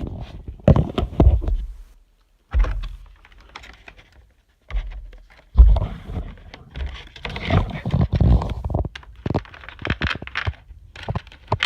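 Clicks, knocks and scrapes of packaging being handled as parts of a die-cast model airliner are taken out of the box. They come in bursts with two short pauses, and the loudest knock is about five and a half seconds in.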